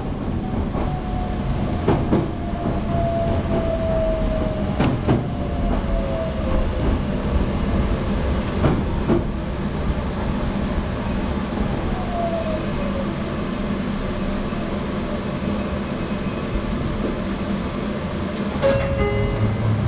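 Inside a Meitetsu 3150 series electric train slowing into a station: steady running noise with scattered wheel clicks over rail joints, and the motor whine gliding down in pitch as the train brakes to a stop. About a second before the end, short repeating electronic tones at two pitches begin.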